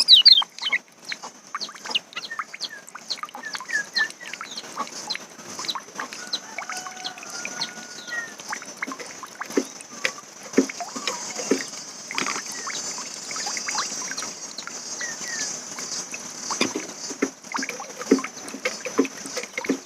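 Quiet, scattered songbird chirps and high twittering over many small clicks and taps.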